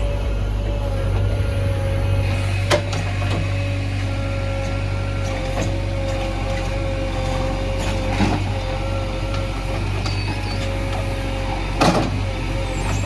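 JCB 3DX backhoe loader's diesel engine running steadily under load with a steady whine over it, while loading mud. Three sharp knocks ring out, about three, eight and twelve seconds in.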